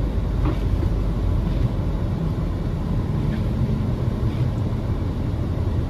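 Steady low rumble of a car driving on snow-covered roads, heard from inside the cabin: engine and tyre noise without distinct events.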